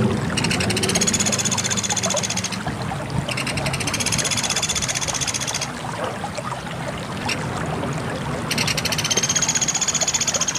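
Pelatuk beras (Sunda pygmy woodpecker) calling: three long, rapid high-pitched trills of about two seconds each, the last one still going near the end, over a steady rushing background noise. A low hum fades out early on.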